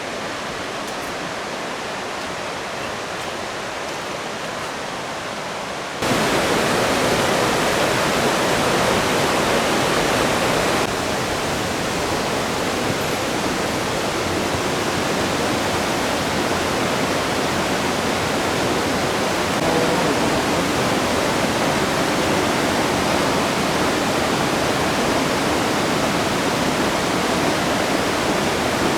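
Waterfall rushing, a steady wide hiss of falling water. It jumps abruptly louder about six seconds in and eases down a little near eleven seconds, as the shots change.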